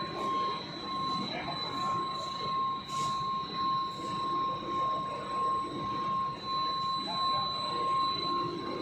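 Rubber-profile production line machinery running: a steady high whine over a continuous mechanical hum, the level swelling and dipping evenly about once a second.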